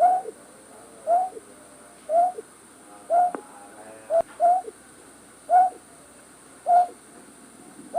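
A night bird's short hooting call, repeated evenly about once a second: eight single notes that each rise briefly and then drop in pitch. A sharp click sounds about halfway through.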